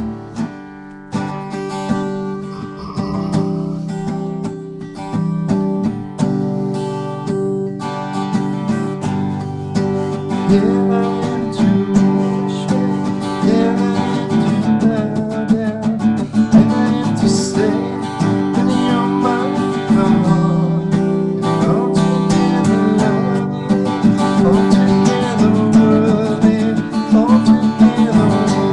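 Acoustic guitar strummed, chords ringing on steadily.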